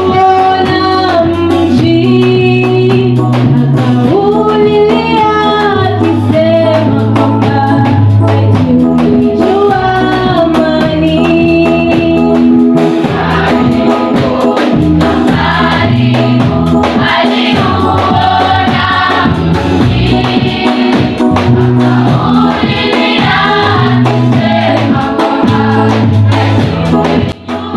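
Choir singing a gospel song over a steady bass accompaniment.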